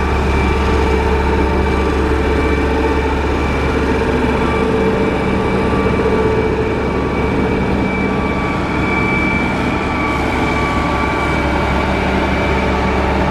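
Motor grader's diesel engine running steadily: a low drone with a steady whine above it.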